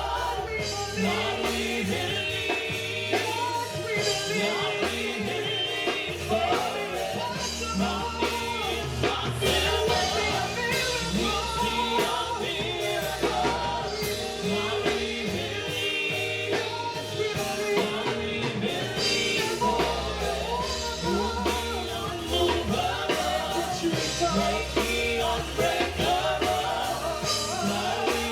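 Live gospel praise-and-worship music: a praise team singing over a full band playing a steady beat.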